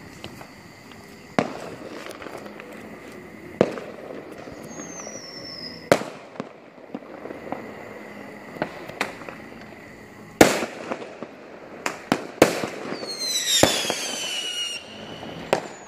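Aerial fireworks exploding, with sharp bangs every second or few over a background crackle. A single whistle falls in pitch about five seconds in, and several whistles fall in pitch together near the end.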